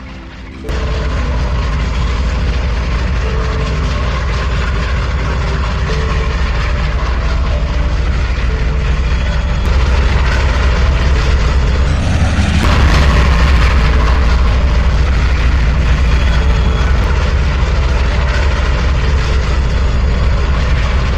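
Heavy engine running with a loud, steady low rumble, typical of a diesel locomotive. It starts suddenly about a second in and grows somewhat louder around the middle.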